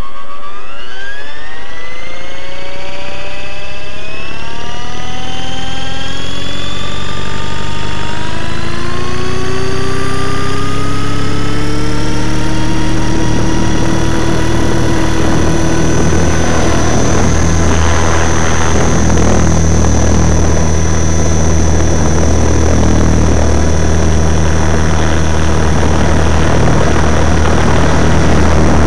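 Radio-controlled helicopter spooling up close to the microphone: its drive whine rises steadily in pitch for about fifteen seconds, then holds at a steady high whine over a heavy low rotor beat.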